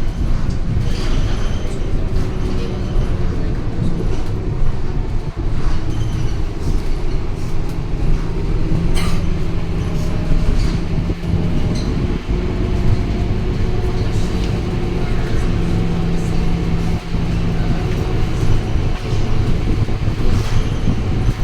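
Scania K230UB bus's diesel engine running steadily while under way, with occasional short rattles and clicks.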